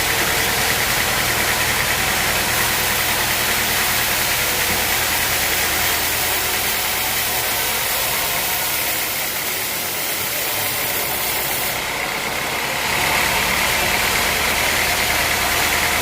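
Sawmill machinery running steadily with a constant whine, easing slightly past the middle and picking up again about three seconds before the end.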